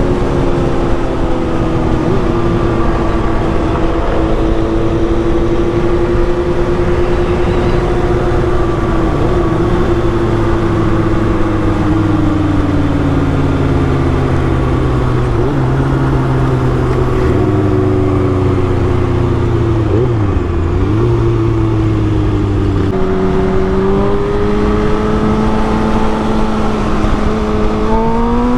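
Kawasaki Ninja ZX-6R inline-four engine running at cruising speed under a steady rush of wind noise. The engine note sinks slowly through the middle, jumps back up late on, then climbs quickly near the end as the throttle opens.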